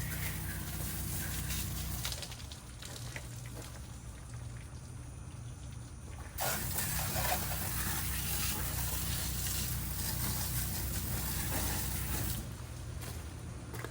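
Pressure washer rinse spray hissing on water, easing off about two seconds in, then coming back louder about six seconds in and cutting off about twelve seconds in, over a steady low hum.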